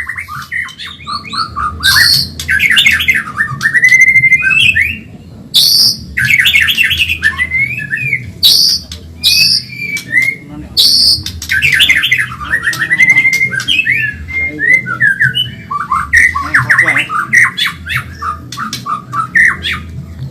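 White-rumped shama (Medan murai) singing a fast, varied song of rapid trills, sharp high notes and gliding whistles, phrase after phrase with brief pauses.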